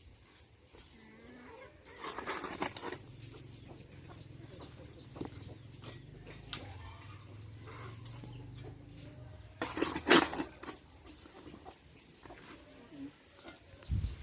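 Chickens clucking, with two louder bursts, one about two seconds in and one about ten seconds in.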